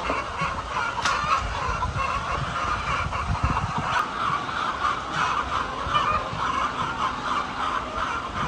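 Many chickens clucking at once, a steady, dense overlapping chatter.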